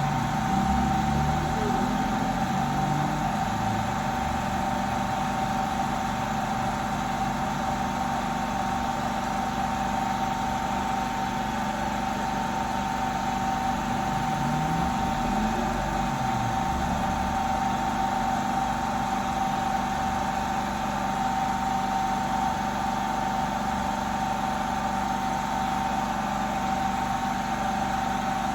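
Steady machine whir with one constant high-pitched hum running unchanged.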